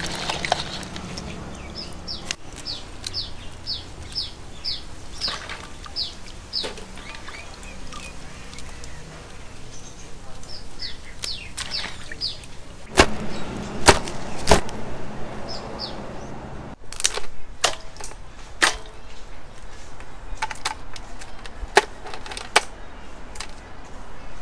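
A bird calling a run of short, falling high chirps, about two a second, broken off and taken up again, with scattered sharp knocks and clicks, the loudest about thirteen to fifteen seconds in.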